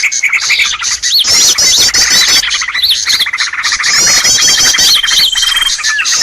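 Bird-lure recording: a dense, loud chorus of several small birds calling at once, with fast trills, runs of quick high sweeping notes and a thin held whistle now and then.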